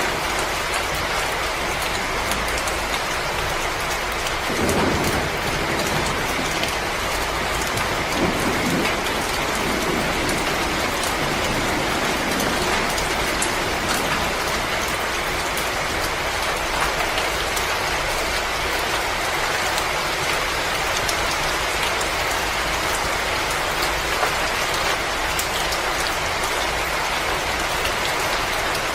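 Wood fire crackling steadily, a dense hiss scattered with small sharp pops. A low rush swells briefly about five seconds in and again around nine seconds.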